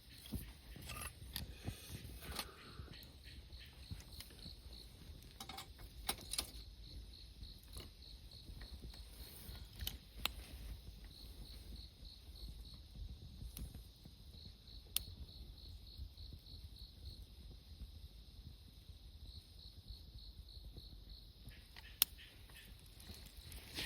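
Insects chirping in trains of quick, evenly spaced pulses, about five a second, stopping and starting again. A few sharp crackles from a wood campfire stand out, the loudest about 22 seconds in.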